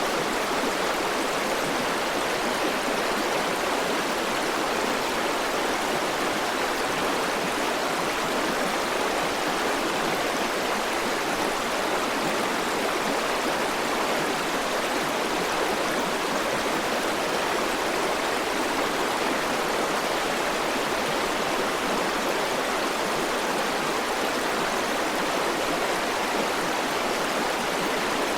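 River water flowing over rocks: a steady, even rushing with no breaks or single splashes.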